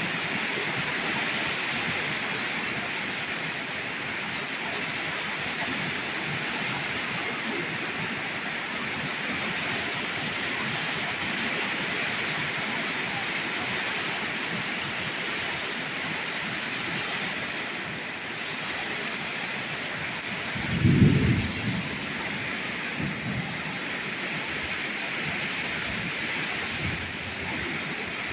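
Torrential rain pouring down steadily. About three quarters of the way through comes a loud, low clap of thunder, followed by a few fainter low rumbles.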